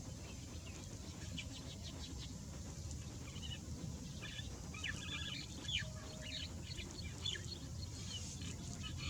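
Small birds chirping: a flurry of short, sharp, falling calls, busiest in the middle of the stretch, over a steady low rumble.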